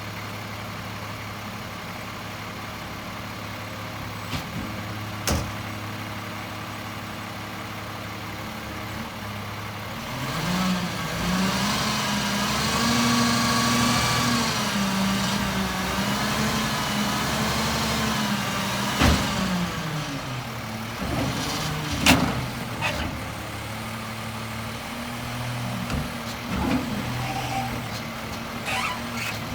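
Peterbilt 520 garbage truck's diesel engine idling, then speeding up about a third of the way in for roughly ten seconds with a whine on top, the way it does when driving the automated arm's hydraulics, before settling back to idle. A few sharp knocks, the loudest about three quarters of the way in.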